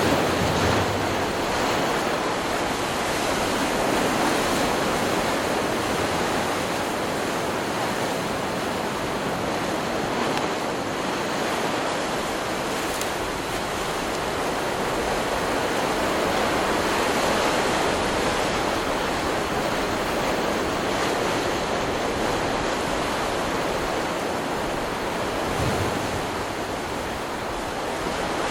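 Stock recording of ocean surf: waves breaking and washing in as a continuous rush that swells and eases slowly.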